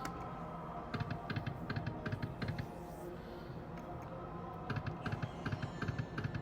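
Slot machine spinning, with rapid clicking in two bursts of about a second and a half each, over faint steady machine tones.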